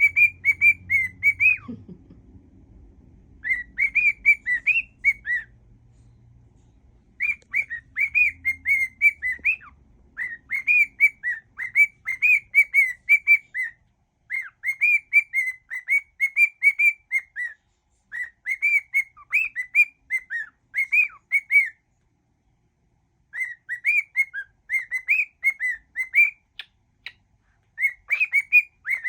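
Cockatiel whistling a song, in phrases of quick, bouncing notes a few seconds long with pauses of a second or two between them.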